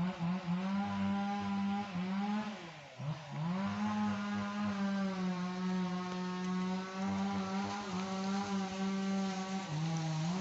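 A small engine running steadily, its pitch sagging and recovering about three seconds in and again near the end, as if briefly put under load.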